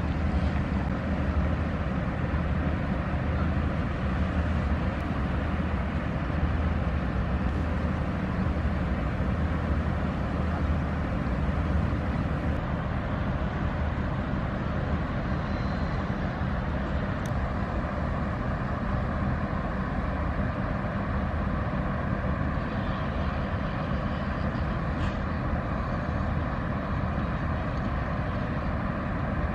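Inland cargo ship's diesel engine droning steadily as the vessel moves along the river, a low even hum with no change in pace.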